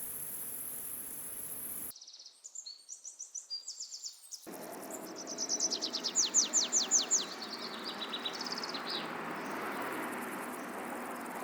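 A steady high insect buzz for the first two seconds, then birds singing in runs of quick, high chirping notes, the loudest run about six to seven seconds in, over a steady outdoor background hum.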